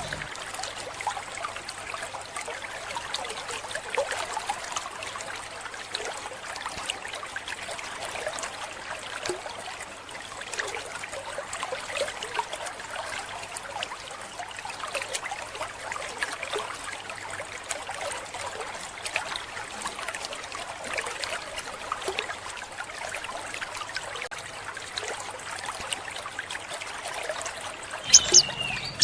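Water trickling steadily, like a small stream. About a second before the end, an olive-backed sunbird starts singing sharp, high chirps.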